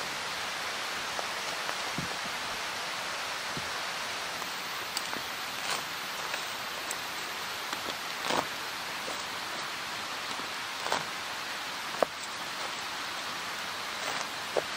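Steady rain, a continuous hiss with scattered louder drops ticking, the sharpest about two-thirds of the way in.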